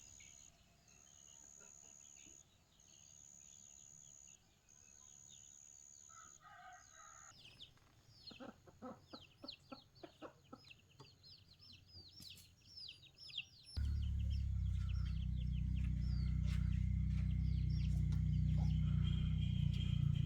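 Outdoor ambience: a high insect-like buzz pulsing on and off every couple of seconds, then a flurry of bird chirps and chicken clucks. About fourteen seconds in, a loud steady low hum starts suddenly and drowns them out.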